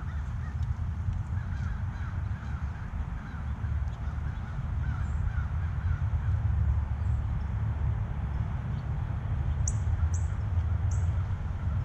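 Wild birds calling at a backyard feeder: a string of short repeated calls through the first half, then three sharp high chips near the end, over a steady low rumble.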